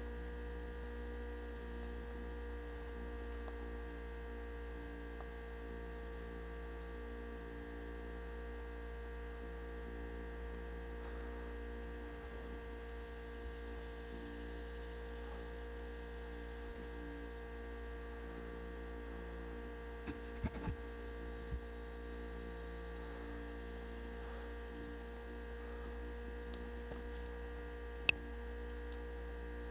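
Steady electrical hum made of several fixed tones, with a few faint clicks about twenty seconds in and one sharp click near the end.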